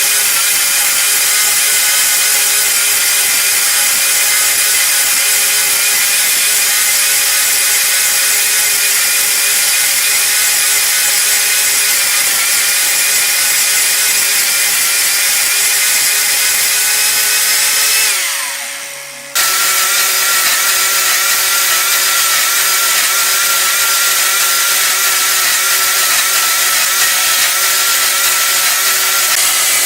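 Wood lathe running steadily with a high whine and the hiss of wood being turned. About eighteen seconds in, the whine falls in pitch and the sound dies away, then it breaks off and the running starts again suddenly.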